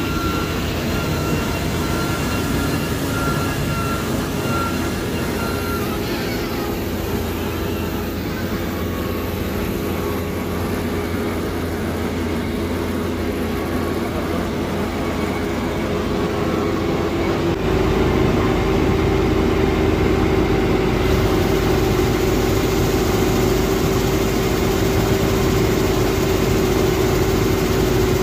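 Claas Dominator 48S combine harvester running steadily. About two-thirds of the way through it grows louder and a steady hum comes in.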